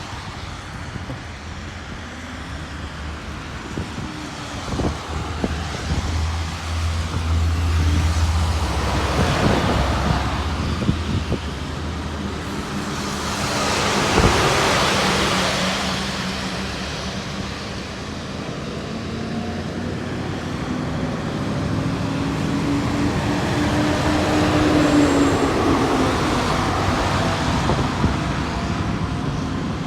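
Road traffic passing close by: several cars and heavier vehicles go past one after another, the loudest about halfway through, with a low engine hum for a few seconds before it.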